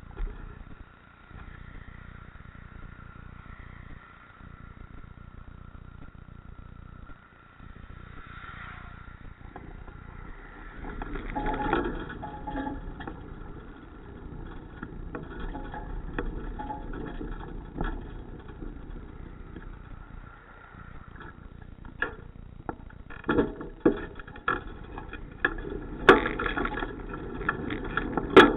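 Steady road and wind noise from a moving bicycle. It swells about a third of the way in, and sharp knocks and rattles come more and more often near the end.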